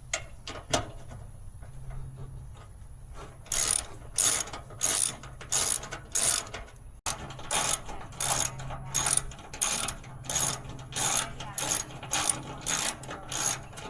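Hand ratchet wrench working a bolt during an oil change: a few single clicks, then from a few seconds in a steady run of about fifteen short ratcheting strokes, roughly one and a half a second.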